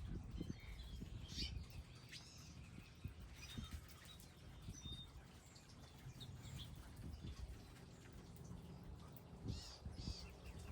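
Small wild birds chirping on and off, short high calls scattered throughout, with two louder calls near the end.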